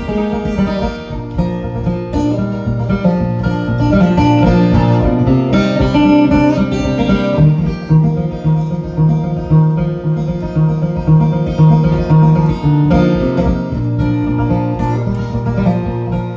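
Acoustic guitar playing an instrumental break in a folk ballad: quickly picked melody notes over a steady, repeating bass line.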